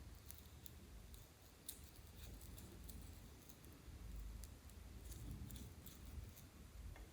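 Faint irregular small clicks and pops of clear slime being stirred and squeezed by hand, a few each second.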